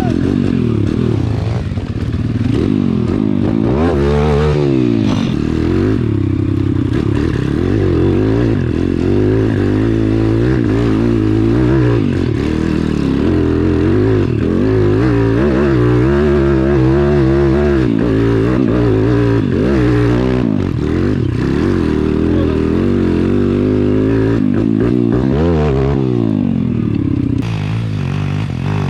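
Small pit bike engine revving up and down over and over as the bike is ridden, its pitch climbing and falling with the throttle and gear changes.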